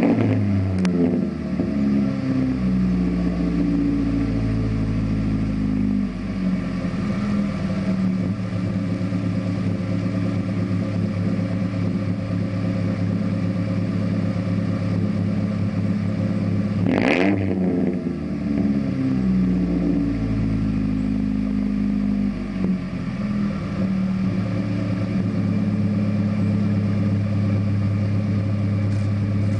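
Ford Ranger 2.3-liter four-cylinder running through a Cherry Bomb Extreme muffler with one catalytic converter removed: a loud exhaust note that settles from a rev at the start and holds a steady low drone. A little past halfway it is blipped sharply once and drops straight back.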